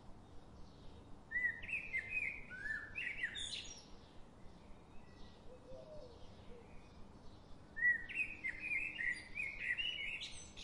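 A songbird singing: two bursts of quick, warbling song, each two to three seconds long, over a faint outdoor background hiss.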